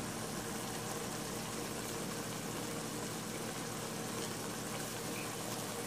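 Onion-tomato and chickpea masala sizzling and bubbling steadily in an oiled pan as it is fried down.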